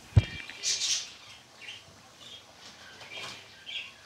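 A sharp knock with a brief metallic ring just after the start. Then short, high bird chirps come again and again in the background.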